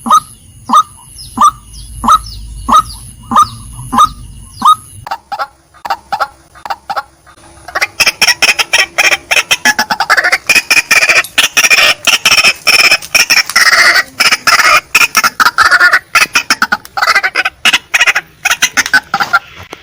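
Female white-breasted waterhen calling. For the first five seconds it gives a regular series of sharp, falling notes, about one and a half a second. After a few seconds of fainter notes, a dense, rapid chattering of calls starts about eight seconds in.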